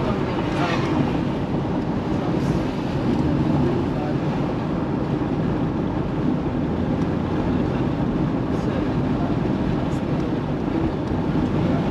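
Steady engine and road noise of a car driving along, heard from inside the cabin, with some wind noise.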